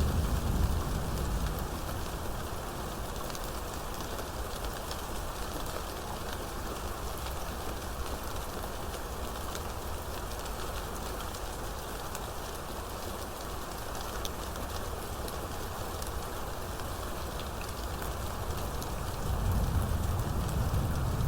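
Steady rain falling, with many separate drops clicking through the downpour. A low rumble of thunder dies away in the first second, and another swells in near the end.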